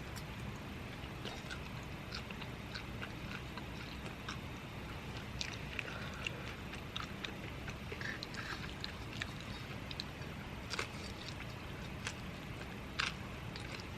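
Someone eating: sparse small crunches and clicks of chewing and handling food, over a steady low hum.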